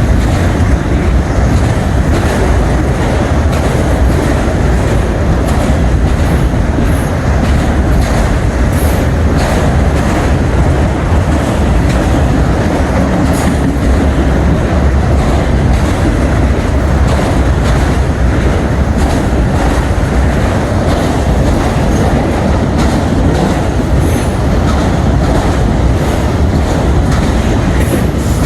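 Freight train cars rolling steadily past, the wheels clicking over rail joints, with a few brief faint wheel squeals.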